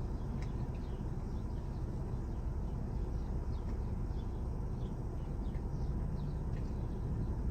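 Steady low rumble inside a parked car, with faint small clicks and smacks from eating and chewing scattered through it.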